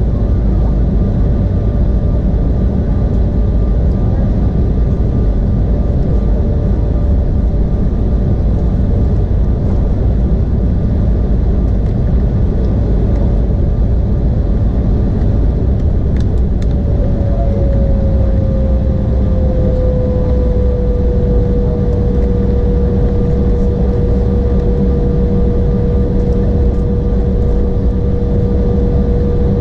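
Cabin noise of an Embraer E175 with its twin GE CF34 turbofans running: a loud, steady rumble with a held whine that slides slightly lower in pitch about halfway through and then stays steady.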